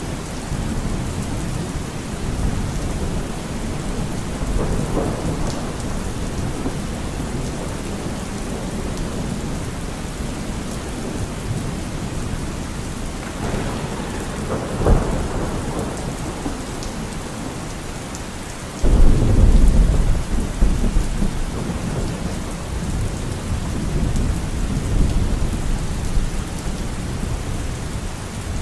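Steady rain falling during a thunderstorm, with low rolls of thunder; about two-thirds of the way through, a sudden loud thunderclap breaks in and rumbles on for several seconds.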